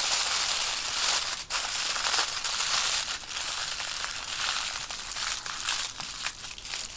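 Aluminium foil crinkling and crumpling as it is folded up around a trout, a dense run of crackles that eases off in the second half.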